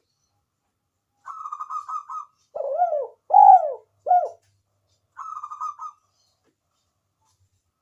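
Spotted dove (tekukur) cooing: a rolling, quavering phrase, then three deeper arched coos, then another rolling phrase, the typical call used to lure wild spotted doves into calling.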